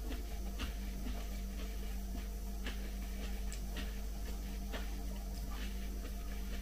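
Faint chewing and wet mouth clicks from eating green salad and bread, irregular and soft, over a steady low hum.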